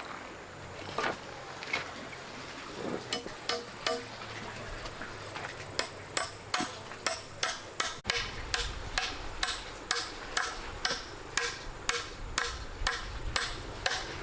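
Repeated sharp knocks, like hammering or chopping: a few scattered strikes at first, then a steady run of about two strikes a second from about six seconds in.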